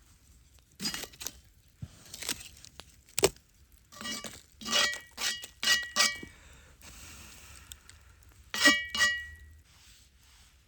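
Tableware clinking: a few light knocks, then a run of ringing clinks, the loudest near the end, with a soft hiss for about a second in between.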